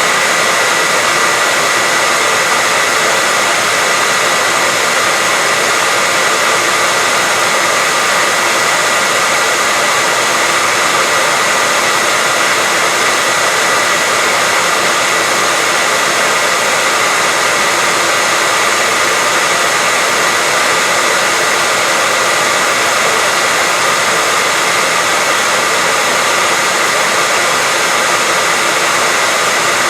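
Hair dryer running steadily at a constant speed: an even, loud rushing hiss with a steady whine near the top of the sound.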